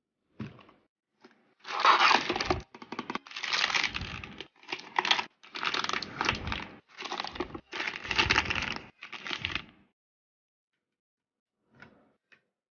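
Packaging crinkling and tearing in bursts as it is opened by hand, for about eight seconds, then a couple of faint ticks.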